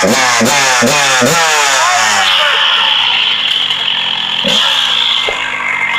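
Kawasaki KX100 two-stroke dirt bike engine revving in quick repeated blips, about two a second, then held at high revs with a couple of brief dips.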